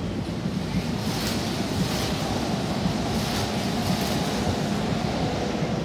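Toei Shinjuku Line electric train passing through a station at speed without stopping: a steady, loud rush of wheels on rail and moving air as the cars go by close to the platform.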